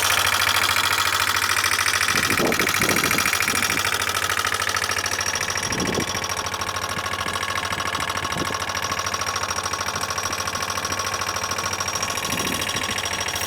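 Suzuki Address V125 scooter's single-cylinder four-stroke engine running steadily with a fast metallic ticking rattle. It is the abnormal engine noise that the owner says has grown louder along with poor acceleration and a top cruising speed of 40 km/h, despite a claimed engine overhaul.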